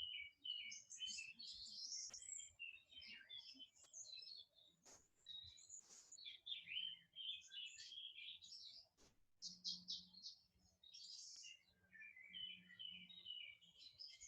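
Faint birdsong: small birds chirping and twittering almost without pause.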